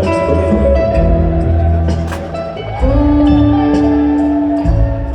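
Live rock band playing an instrumental stretch of a slow song: electric guitar lines over bass and drums, with one long held guitar note from about three seconds in.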